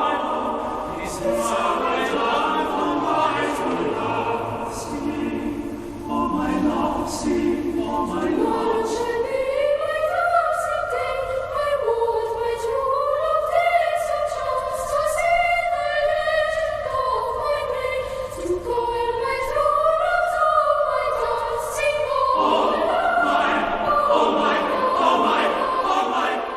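Background music of a choir singing, with long held notes in harmony and a slowly moving melody, fading out at the end.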